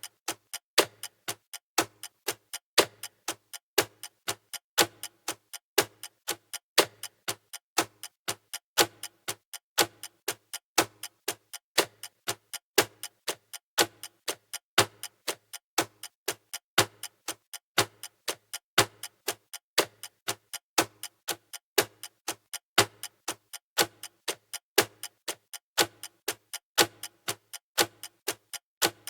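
Clock-like ticking sound effect of a countdown timer: rapid, even ticks, with a louder tick every two seconds.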